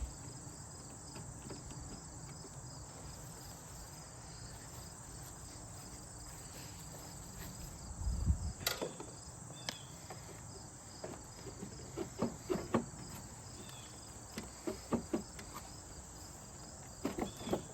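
Crickets chirping steadily, with scattered clicks and knocks of hand tools and loose metal parts being handled during disassembly of an air conditioner: a louder clunk about eight seconds in, then a string of small taps and clicks near the end.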